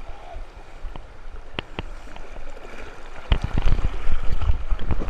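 Fast-flowing river water rushing, with a few sharp knocks, turning much louder with a low rumble from about three seconds in.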